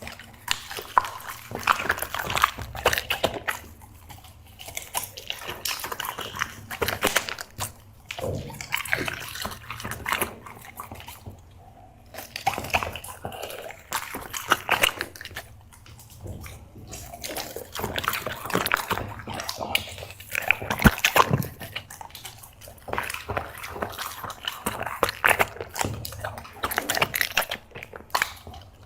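Black Labrador chewing and smacking wetly on food, in bouts of a few seconds with short pauses between.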